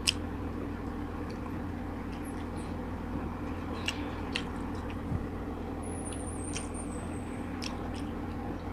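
A steady low background hum, with a few soft clicks and smacks from chewing and from a paper tissue being handled. A faint high chirp sounds about six seconds in.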